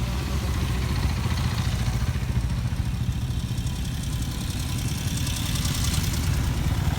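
Motorcycle engine running at low speed close by, a loud, steady, fast-pulsing exhaust note.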